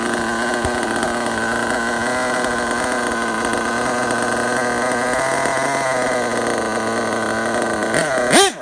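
Dynamite .28 nitro engine idling steadily, set rich with the low-speed needle richened to bring the idle down. A little after eight seconds in, a quick throttle blip sends the pitch shooting up and straight back down.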